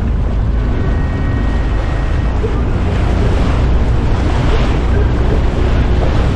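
Wind buffeting the microphone and water slapping and rushing past a small boat running through choppy water, a steady low rumble throughout.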